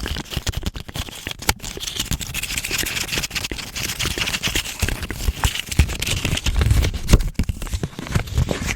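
Paper US dollar bill crinkled and rubbed close to the microphone: a dense run of quick crackles and taps, with a few low thumps about two-thirds of the way through.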